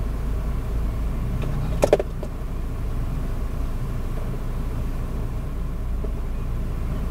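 Steady low rumble of an idling vehicle engine, with a brief cluster of sharp knocks about two seconds in.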